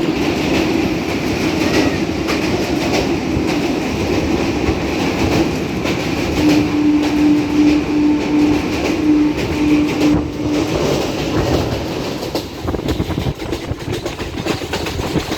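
Passenger train running at speed, heard from on board: a steady rumble with the clatter of wheels on the rails. Partway through, a pulsing steady tone repeats for about four seconds.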